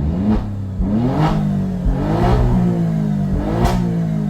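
Alfa Romeo Stelvio Quadrifoglio's twin-turbo 90-degree V6 free-revving while stationary, in about four quick rising-and-falling blips. The stock air filters have been replaced with K&N filters to bring out the turbo induction sound. A brief sharp burst of noise comes near the end.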